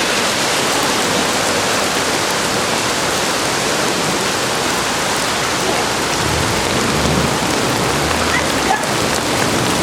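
Steady rain pouring down, a dense even hiss of drops on surfaces. A low rumble joins in about six seconds in and fades near the end.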